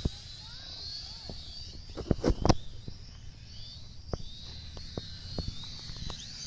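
Birds chirping over a steady low rumble, with scattered sharp clicks and a loud cluster of knocks about two seconds in.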